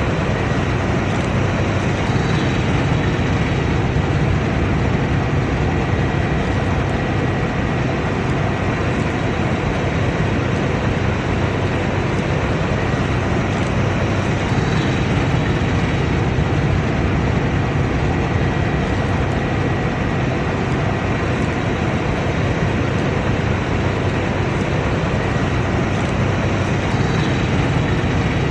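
Combine harvester running steadily at work: a dense, unbroken machine drone with a faint constant high whine.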